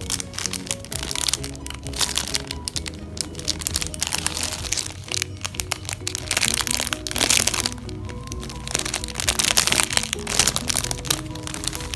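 Foam squishy toys squeezed by hand, giving dense, irregular crackling and crinkling that comes in heavier spells, over background music.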